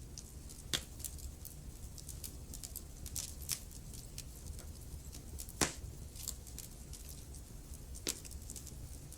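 Wood fire burning in a fireplace: frequent small crackles with three louder pops, about a second in, just past the middle and near the end, over a steady low rumble of the flames.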